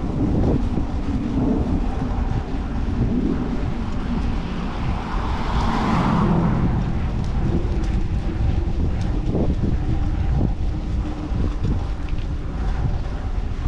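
Wind buffeting the microphone of a riding cyclist's camera, a steady low rumble, amid street traffic. About halfway through, a vehicle's noise swells up and fades as it passes.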